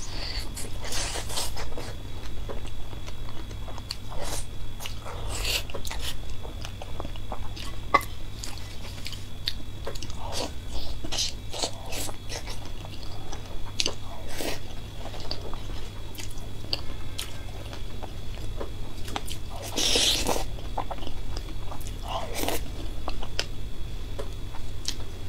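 Close-up chewing and biting into spicy marinated raw shrimp: soft wet crunches and mouth clicks at an irregular pace, with a few louder bites, the loudest about twenty seconds in.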